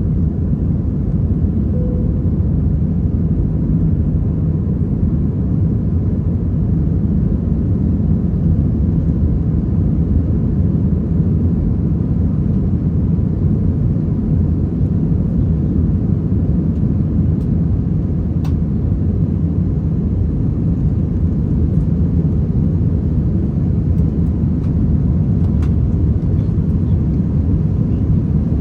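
Airbus A320 jet noise, a steady low rumble that holds level throughout, with a few faint ticks.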